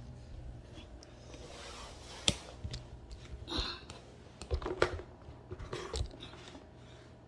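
A few separate light clicks and knocks of furniture parts and hardware being handled during flat-pack assembly, with a faint steady low hum underneath.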